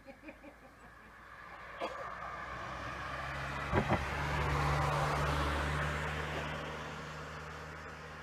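A car driving past, its engine hum and tyre noise rising to a peak about five seconds in, then fading. Two quick knocks come just before the peak.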